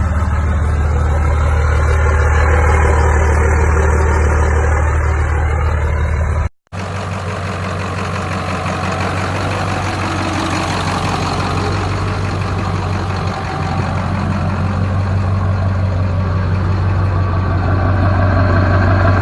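Diesel pickup truck engine running steadily with a strong deep hum. It cuts off abruptly about six and a half seconds in, and a second truck engine then runs on steadily.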